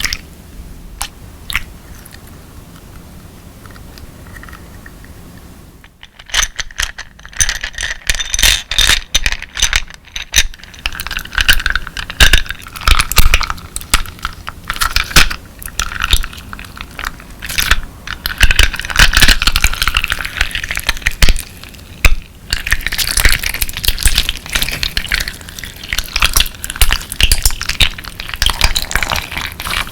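Clear slime mixed with colourful crystal pieces being squeezed and worked by hand, giving crunchy clicks and crackles. A few isolated clicks at first, then about six seconds in a dense, continuous run of crunching that goes on with a short pause about two-thirds of the way through.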